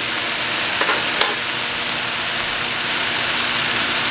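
Shredded cabbage and vegetables sizzling steadily in a hot nonstick stir-fry pan on a gas burner, with two small clicks about a second in.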